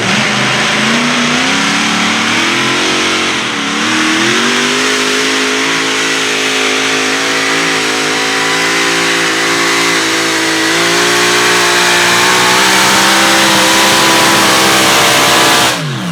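Modified pulling tractor's engine revving up and then held at high revs under load through a pull, its pitch dipping once about three seconds in, then staying steady and slowly climbing. The sound cuts off sharply near the end.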